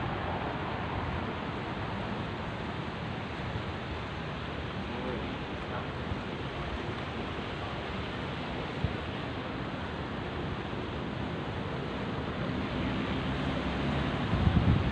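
Steady wash of sea surf. Near the end, wind starts buffeting the microphone in low gusts.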